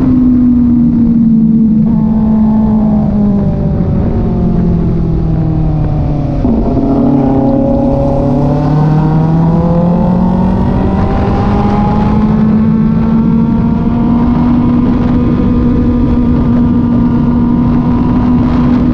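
Kove 450 Rally motorcycle's single-cylinder engine running while riding. Its revs drop a few seconds in, then climb gradually over several seconds and hold steady.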